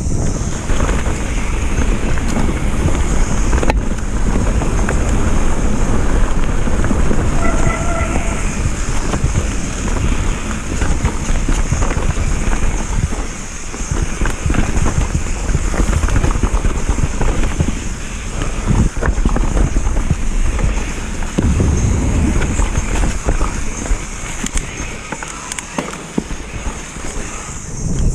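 Mountain bike on a downhill run: wind buffeting the microphone over the rumble and rattle of tyres and bike on rough trail. There is a brief squeal about seven seconds in.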